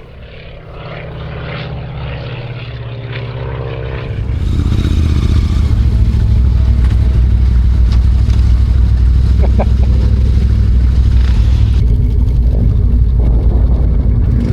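A light propeller aircraft droning, its pitch sliding slightly. About four seconds in it gives way abruptly to a much louder steady motorcycle engine and wind rush, as when riding.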